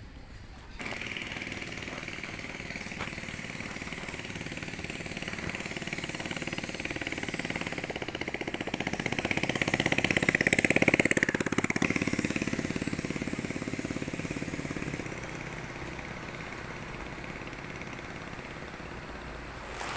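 A motor vehicle's engine going by, growing louder to a peak about halfway through, dropping in pitch as it passes, then fading back to a steady running sound.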